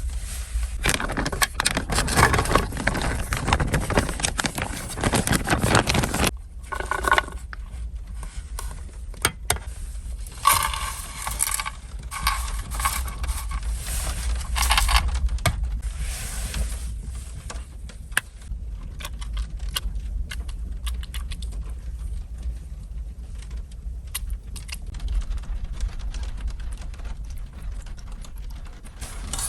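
Small objects being handled, clinking, scraping and rustling in many short clicks, over a steady low rumble.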